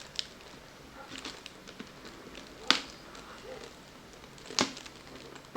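Handling of a plastic package: three sharp clicks spread a second or two apart, with small ticks and light rustling between them.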